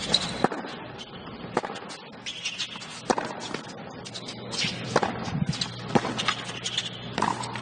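Tennis stadium ambience between points: a low crowd murmur, broken by scattered sharp knocks about a second apart.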